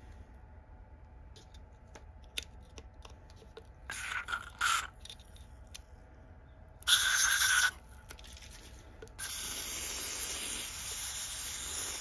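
A pressurised spray hissing in bursts: two short bursts, then a longer steady one of about three seconds that cuts off suddenly. Faint small clicks from handled parts come before the spraying.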